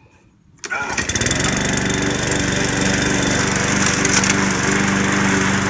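Gasoline push lawnmower started with a pull of the recoil cord: its small engine catches less than a second in and then runs at a steady speed.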